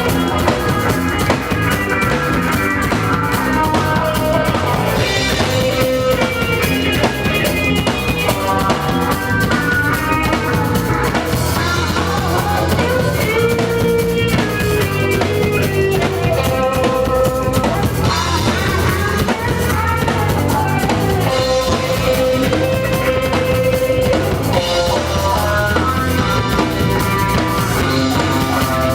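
Rock band playing an instrumental passage live: a drum kit and guitar over a steady low end, with a melodic lead line of long held notes.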